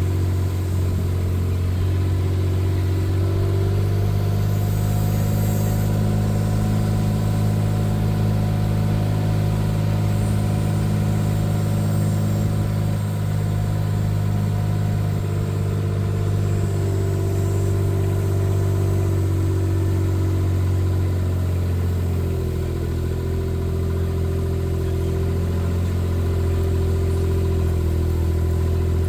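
A motor vehicle's engine running steadily, its pitch shifting slightly about three-quarters of the way through.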